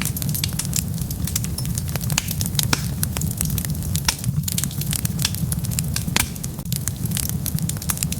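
Wood fire burning with dense, irregular crackles and pops over a steady low rumble of the flames.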